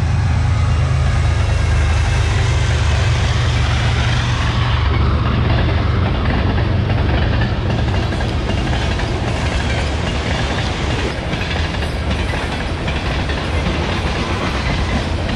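Train passing close by: a loud steady rumble, with a deep low drone that eases off about eight seconds in.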